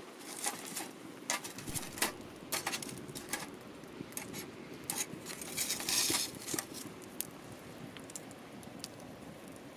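Wood fire crackling, with irregular pops and a brief hissing flare about six seconds in.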